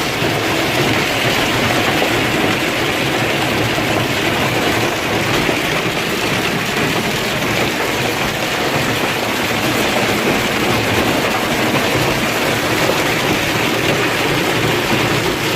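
Heavy hail pounding steadily, a dense continuous clatter and roar with no letup.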